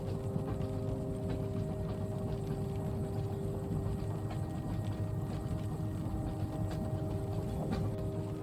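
Inside a moving train carriage: the steady low rumble of the train running, with a faint steady hum, and scattered light ticks of rain on the window.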